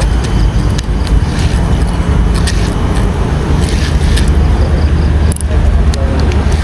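Strong wind buffeting the microphone: a loud, steady low rumble that dips briefly near the end.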